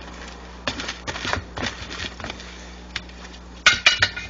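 Big screwdriver pry bars clinking and scraping against a wheel rim and tire bead as a tire is levered off by hand: a few scattered knocks, then a quick run of sharp metal clanks near the end.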